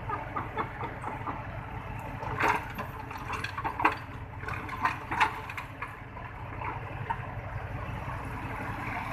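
Diesel engine running at a low idle, with scattered metallic clanks and knocks on top.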